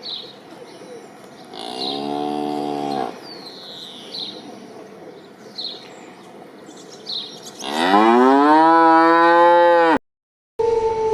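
Cow mooing twice: a short moo about two seconds in, then a longer, louder moo that rises in pitch and holds, cut off abruptly near the end. Small birds chirp repeatedly in the background.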